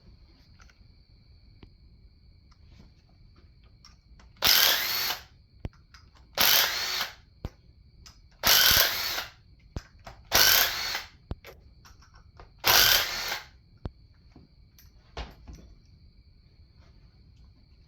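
Handheld power tool run in five short bursts, each under a second and about two seconds apart: bolts being spun out during an engine teardown.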